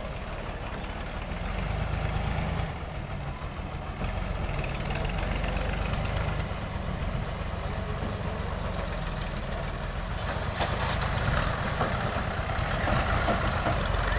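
New Holland Ghazi tractor's diesel engine running steadily.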